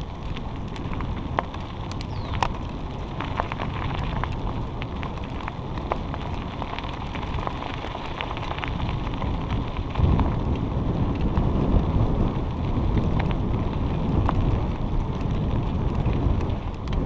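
Bicycle rolling along a trail: tyre noise with scattered small clicks and rattles, and wind buffeting the microphone, the low rumble growing heavier about ten seconds in.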